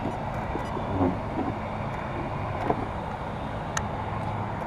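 Small electric cooling fans on a 1/5-scale RC truck's brushless motor and speed controller, running steadily with a low hum. A few light clicks sound over it.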